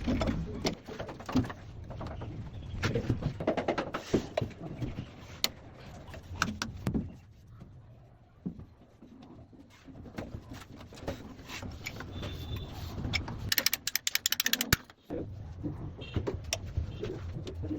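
Irregular clicks, knocks and rattles of CPVC pipe and fittings being handled and fitted, with a rapid run of clicks about two-thirds of the way through.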